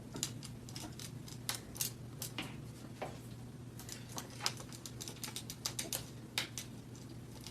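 Washing machine running: a faint, steady low hum with many irregular light clicks and taps.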